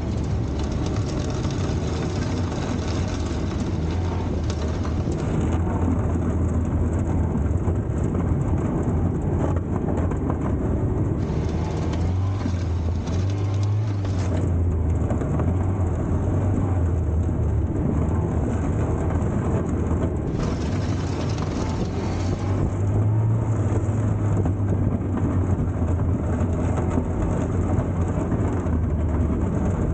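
Baggage tractor's Volvo four-cylinder petrol engine running steadily under work, its pitch rising briefly twice, about twelve seconds in and again about twenty-three seconds in.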